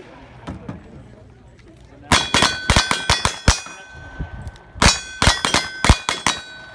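Rapid gunshots in cowboy action shooting, with the steel targets clanging and ringing as they are hit. The shots come in two quick strings, the first about two seconds in and the second near the end.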